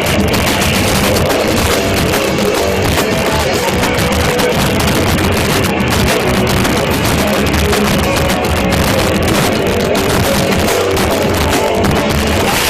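Live rock band playing loudly, with distorted guitar and drums, recorded in a harsh, overloaded way so the sound is dense and flat in level throughout.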